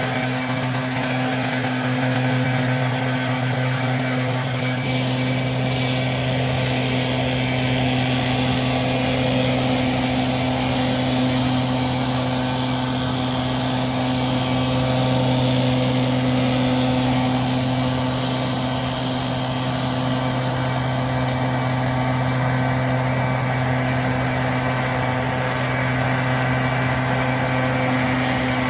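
An engine running steadily at a constant speed: an even hum that does not change for the whole stretch.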